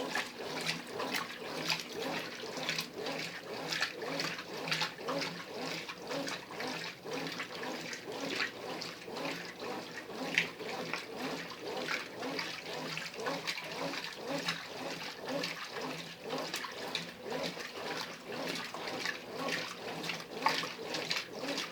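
Brastemp Ative 11 kg washing machine agitating a load in the wash water, with continuous sloshing and churning that surges and ebbs irregularly.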